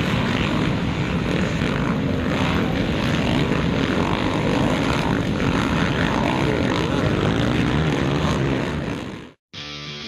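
Motocross bike engine running hard at speed, a steady noisy drone that cuts off abruptly near the end.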